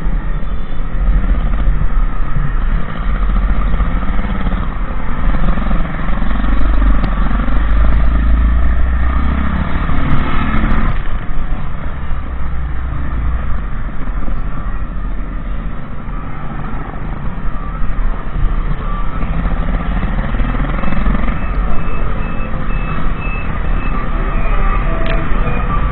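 Motorcycle engine running on the road, its pitch rising and falling as it speeds up and slows, under a heavy low rumble of wind on the microphone.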